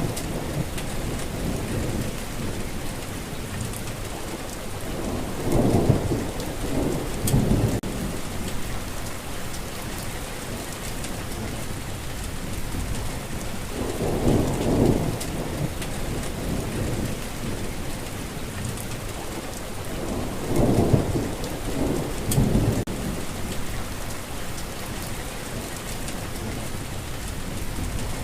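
Steady rainfall with low rumbles of thunder swelling three times, each for a second or two: about a fifth of the way in, halfway, and three-quarters of the way in.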